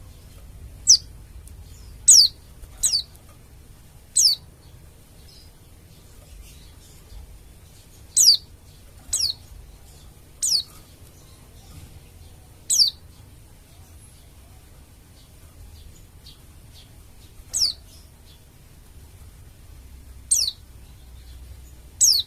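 A pleci dakun Bali white-eye giving about eleven short, very high, down-slurred call notes at irregular gaps of one to five seconds.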